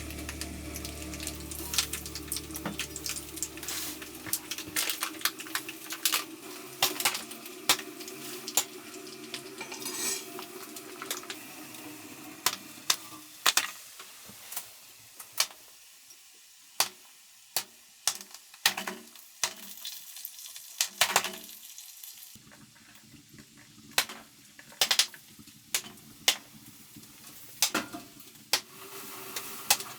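Cooking sounds: cookware and utensils clinking and knocking in a long irregular series of sharp strikes. A steady hiss under them fades away about halfway through.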